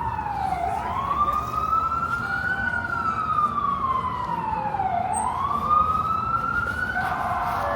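Emergency vehicle siren on a slow wail, its pitch sweeping down and back up about every four and a half seconds, over the low rumble of backed-up street traffic.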